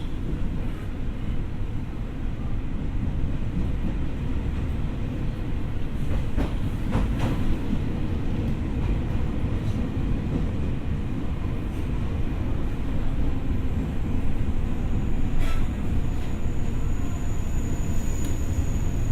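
Ex-Tokyo Metro 6000 series electric train running: a steady low rumble of wheels on track, with a few short knocks from the rails along the way.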